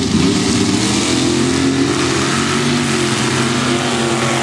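Sand drag racing truck's engine running loudly at a fairly steady pitch.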